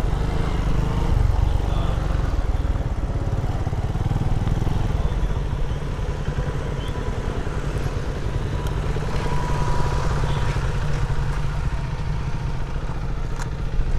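Small motorcycle engine idling steadily, a dense low rumble with a few light clicks.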